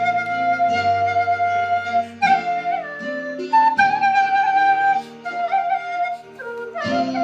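Khlui, a Thai bamboo duct flute, playing a slow melody of long held notes and stepwise changes, over a backing accompaniment of sustained low notes.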